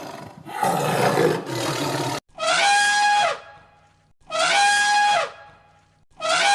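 A rough, noisy animal call that cuts off abruptly about two seconds in. It is followed by a clear, horn-like animal call repeated three times, about two seconds apart, each lasting about a second and dropping in pitch at its end.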